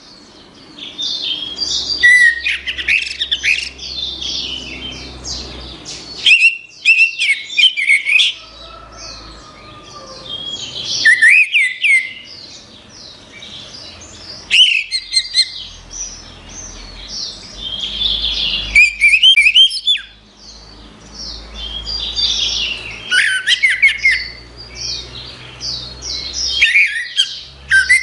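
Orange-headed thrush (anis merah) singing: bouts of rapid, varied, high-pitched warbling phrases with sharp glides, separated by short pauses.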